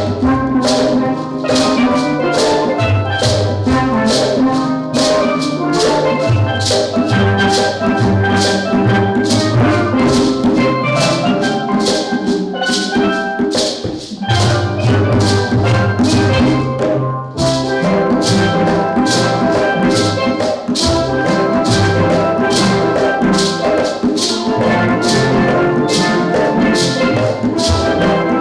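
Steel drum band playing a tune, with bass pans underneath and percussion keeping a steady beat.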